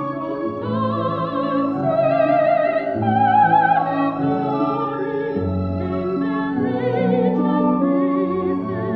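Classical soprano singing with a wide vibrato over a symphony orchestra; the voice comes in under a second in, above sustained orchestral chords.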